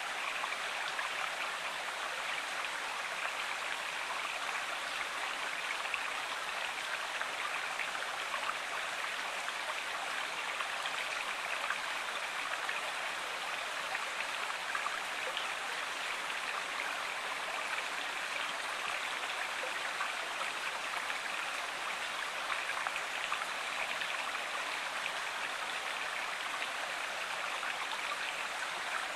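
River water running steadily: an even rushing noise flecked with fine splashes, with no breaks.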